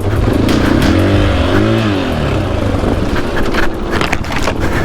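KTM EXC-F 500 dirt bike's single-cylinder four-stroke engine running down a steep hill, the revs rising and falling about a second in, over rough noise from the ride.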